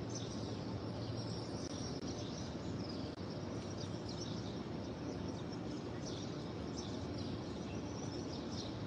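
Small birds chirping, many short high calls scattered through, over a steady background hum.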